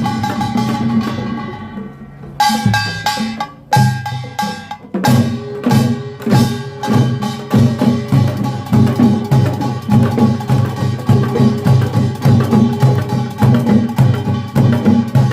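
Korean pungmul farmers' band music: small hand gongs (kkwaenggwari) clanging and ringing over drum strokes. The playing thins out about two seconds in, restarts with a few scattered strikes, then settles into a fast, steady rhythm from about five seconds in.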